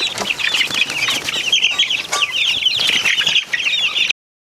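A flock of young chickens peeping, with many quick high chirps overlapping without a break, until the sound cuts off suddenly near the end.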